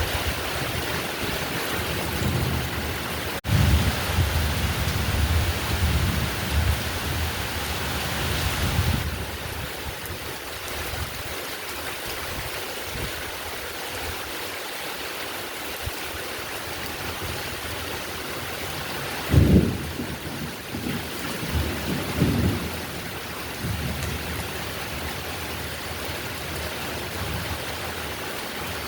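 Heavy, steady rain with low rolls of thunder: one rumbling from just after a momentary break in the sound about three seconds in, and another swelling up about two-thirds of the way through, the loudest moment.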